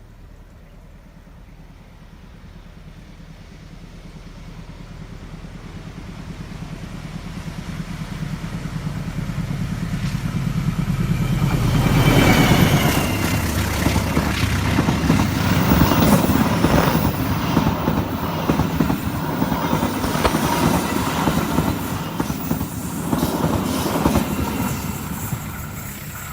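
A diesel train approaching, its locomotive's engine drone growing louder for about twelve seconds, then passing close with a brief high wheel squeal; the carriages then roll by with a steady rhythmic clickety-clack of wheels over the rail joints.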